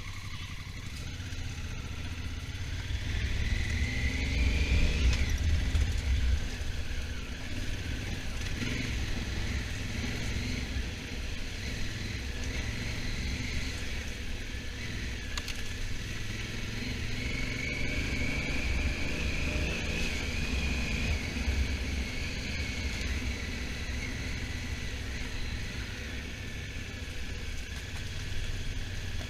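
Honda Africa Twin motorcycle engine running on the move. Its pitch rises as it accelerates a few seconds in, then eases off, and it climbs again gently about two-thirds of the way through.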